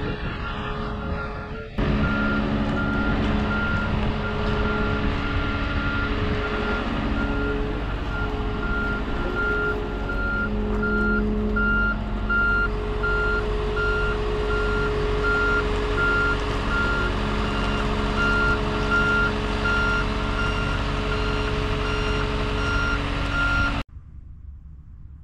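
Heavy machine's motion alarm beeping in a regular, evenly spaced pattern over its diesel engine running steadily; the sound grows louder about two seconds in and cuts off abruptly near the end.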